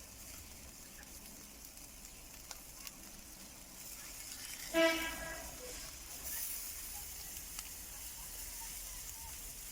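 Faint, steady sizzling and hissing from chicken grilling over the fireplace fire. About five seconds in, one short pitched call or honk cuts through.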